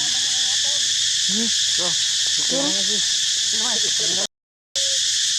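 Steady, loud, high-pitched insect chorus of crickets or cicadas, with fainter short pitched calls underneath. The sound cuts out completely for about half a second about four seconds in.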